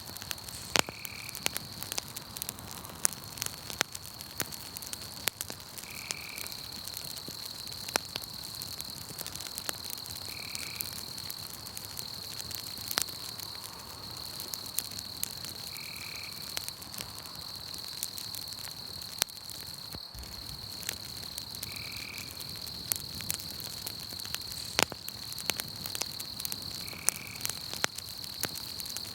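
Campfire crackling with scattered sharp pops, over a steady high-pitched chorus of night frogs and insects, with a short chirp repeating about every five seconds.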